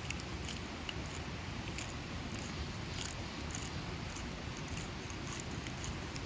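Steady hiss of rain with scattered small, sharp crackles and ticks, like a wet wood campfire popping or drops hitting the camp gear.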